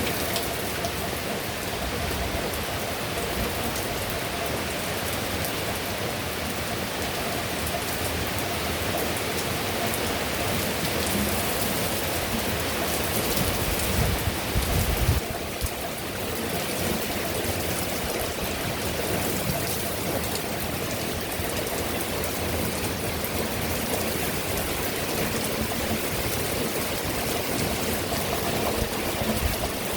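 Heavy rain pouring down steadily, a dense even hiss of drops, with a brief low rumble about halfway through.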